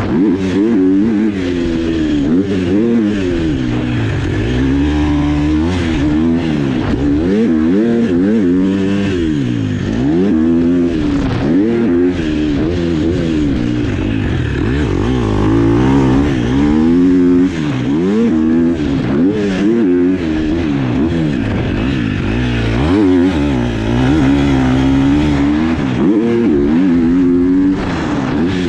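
Dirt bike engine being ridden hard, revving up and dropping off again and again, its pitch rising and falling every second or two.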